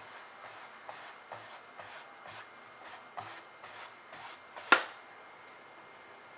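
Paintbrush scrubbing across a canvas in quick repeated strokes, about two to three a second, then a single sharp click about three-quarters of the way through as something hard is tapped or set down.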